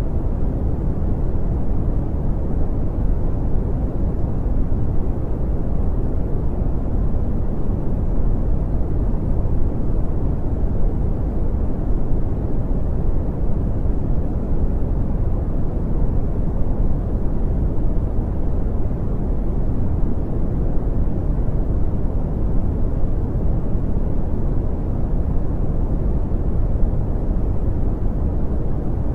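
Brown noise: a steady, deep rushing hiss with most of its energy low down and little in the highs, unchanging throughout.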